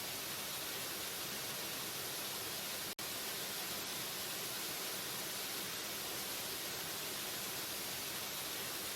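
Waterfall rushing in a steady, even hiss, heavy in the high frequencies, broken once about three seconds in by a split-second dropout.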